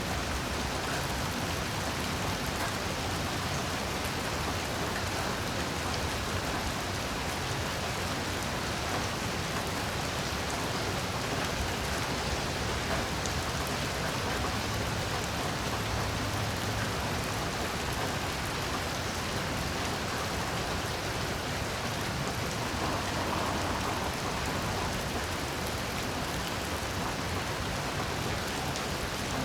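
Heavy rain falling steadily, an even hiss of rain on surfaces with no thunder or other events.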